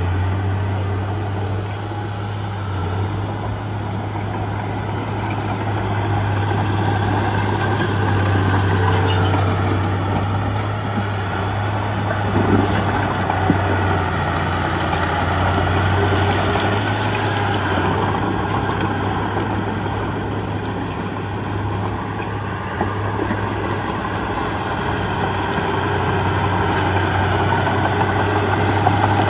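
Heavy diesel earthmoving engine running steadily with a deep hum that swells and eases a little. A couple of brief knocks come about halfway through.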